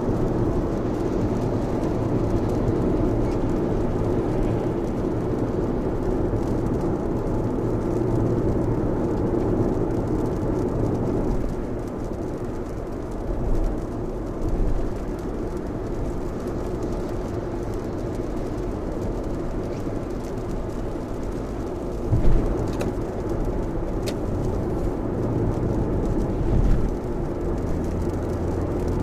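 Steady road and rain noise of a Lexus RX driving on a rain-soaked expressway in a downpour: tyres hissing through standing water, with a few brief thumps.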